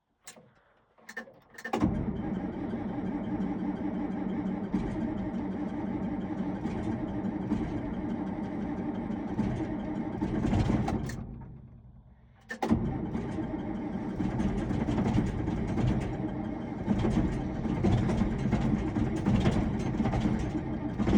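John Deere diesel tractor engine on a cold start: a few clicks, then it catches and runs steadily. About eleven seconds in it dies away, and about a second later it catches again and keeps running.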